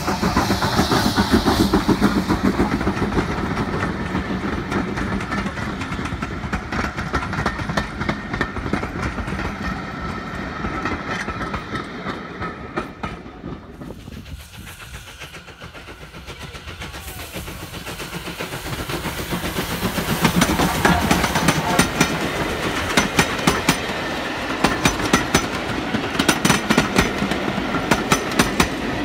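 Steam-hauled train passing close by: loud at first with the locomotive's running noise. The sound fades about halfway through, then builds again as the coaches roll past with a rhythmic clickety-clack of wheels over rail joints.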